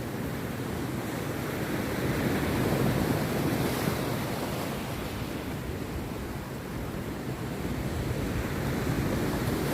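Rough sea surf breaking on a beach: a steady rushing wash that swells up about three seconds in, eases, and swells again near the end.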